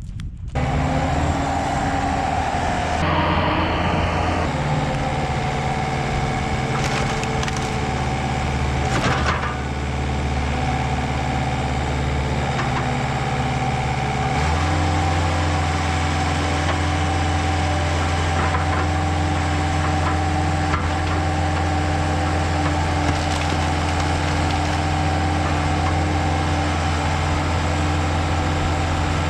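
Komatsu CK30 skid steer's diesel engine running steadily under hydraulic load, its pitch stepping up and down as the log splitter is worked. A large firewood round cracks and splinters as it is split, with sharp cracks about 7 and 9 seconds in.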